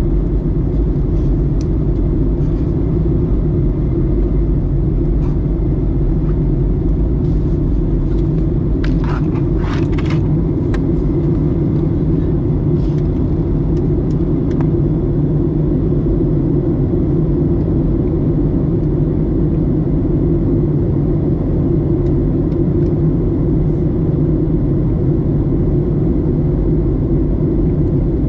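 Steady cabin drone of a Boeing 737-900ER airliner in flight, its engines and airflow giving a deep, even rumble. There is a brief rattle about nine to ten seconds in.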